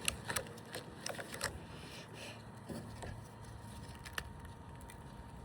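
Rubber bands snapping onto a watermelon: a quick run of sharp snaps in the first second and a half, then two more single snaps, over a steady low background noise.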